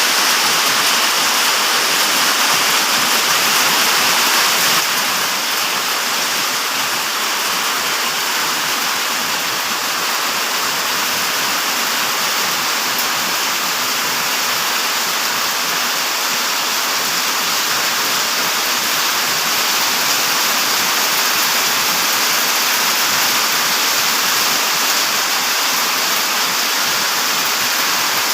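Steady rushing of drizzling rain and strong wind, eased slightly about five seconds in.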